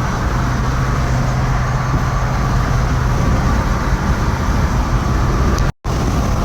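A vehicle moving at speed: a steady low engine drone under loud rushing road or wind noise, broken once by a sudden cut near the end before carrying on.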